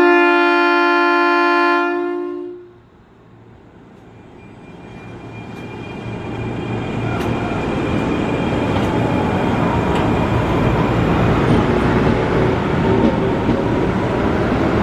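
Electric commuter train of the Tokyo Metro 6000 series sounds its horn: one steady two-note blast lasting about two and a half seconds, which cuts off abruptly. After a moment of near quiet, the train's running noise builds up as it draws near and passes, a steady rumble with a faint high whine.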